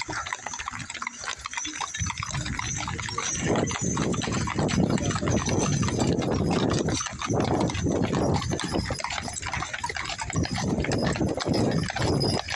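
Horses' hooves clip-clopping in quick, irregular strikes as a wagon train passes, over a dense, steady noise that comes up about two seconds in.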